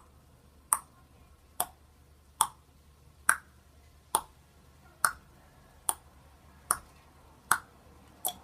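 Sharp clicks repeating at an even pace, a little more than one a second, with quiet between them.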